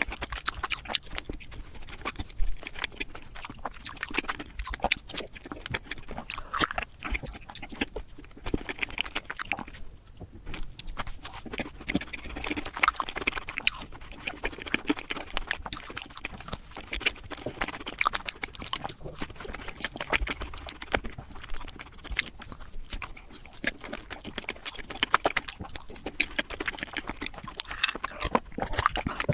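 Close-miked eating sounds of chocolate desserts, played back at several times normal speed: a rapid, dense run of chewing and mouth smacks with many sharp clicks.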